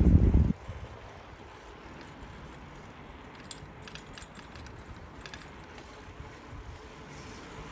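Wind rumbling on the microphone of a moving bicycle stops about half a second in. A quiet stretch follows, with a few faint, light ticks in the middle.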